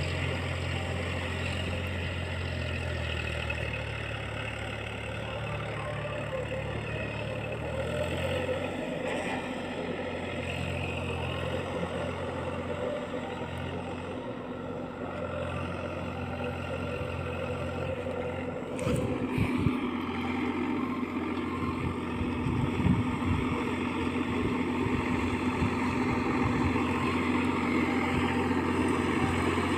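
Tractor diesel engine running steadily. About two-thirds of the way through there are a few knocks and the engine settles into a different, higher steady note.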